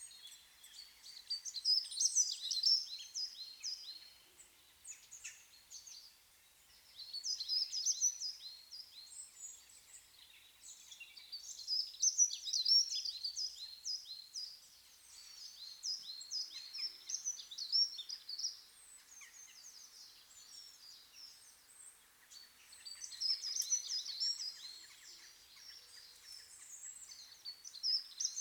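Small songbirds chirping and singing in rapid phrases of a few seconds each, separated by short pauses.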